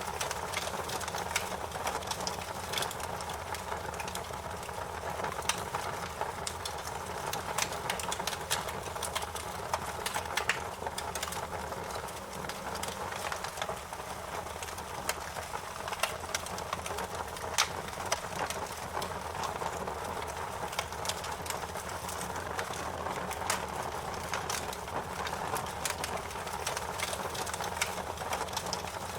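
Campfire burning with a steady rushing hiss and frequent sharp, irregular crackles and pops.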